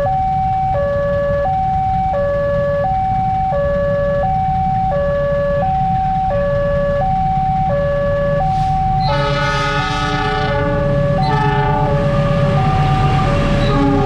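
Railway level-crossing warning alarm sounding a steady two-tone hi-lo signal, alternating about every 0.7 seconds. An approaching train's horn blows two long blasts, about nine and eleven seconds in, over the train's growing rumble.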